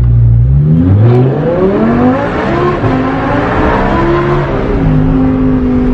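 Lamborghini Huracan LP580-2's V10 engine through a titanium aftermarket exhaust, accelerating hard: the revs climb steadily for about three seconds, drop near the end as it shifts or lifts off, then hold steady.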